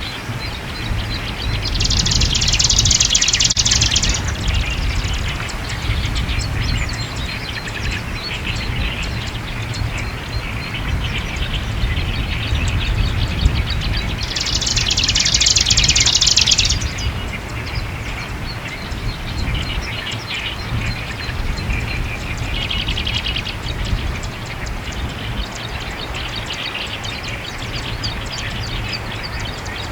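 Japanese marsh warbler singing loud, vigorous song phrases of about two seconds each, three times with a fourth beginning at the end, with fainter bird chatter between. Strong wind rumbles steadily on the microphone.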